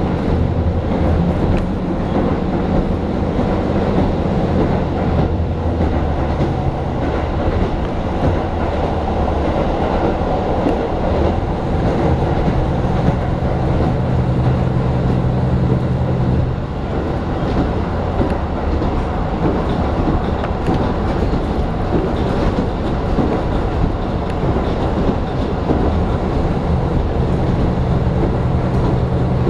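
Diesel local train running on the rails, heard from inside the passenger cabin: steady rail and wheel rumble with some clickety-clack. A low engine drone is strongest in the first few seconds, again about halfway through and near the end.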